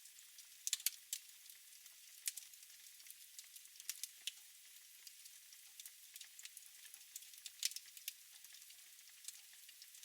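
Wood fire crackling in a fireplace: a faint steady hiss with irregular sharp pops and snaps, a few louder ones scattered through.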